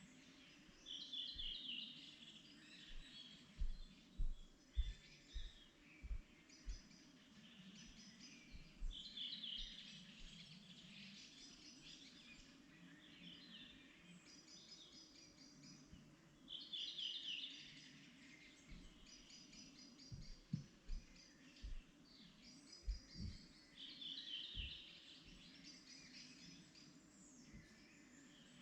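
Spring birdsong: one bird repeats a short song phrase about every eight seconds, while other small birds chirp in quick series between its songs. Scattered low thumps make the loudest moments, over a faint low rumble.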